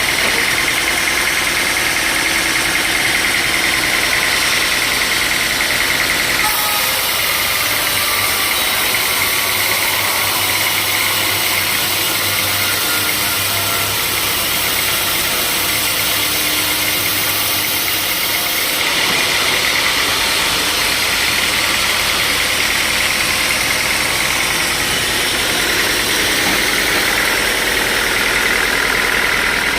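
Sawmill machinery running steadily. About a third of the way in, the sound turns to a brighter hiss with less low hum for about twelve seconds, then goes back to the steady running sound.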